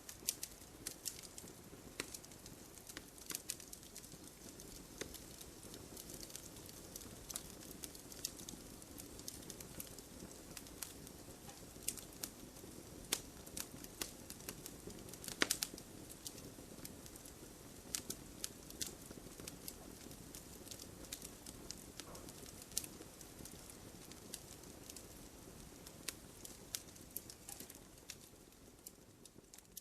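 Fire burning in a fireplace, crackling: irregular sharp pops and snaps, a few louder ones, over a soft steady rush of flames.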